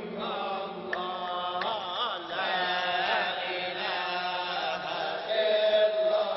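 Sufi dhikr chanting at a hadra: a steady low drone of group chanting with a wavering melodic line over it.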